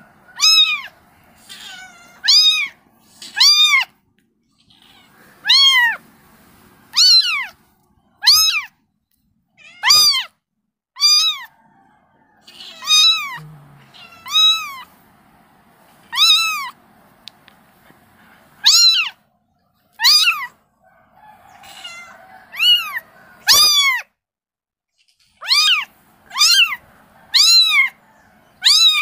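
Kitten meowing repeatedly, calling for its mother: about twenty short, high-pitched meows, each rising then falling in pitch, at irregular intervals with a brief pause near the end.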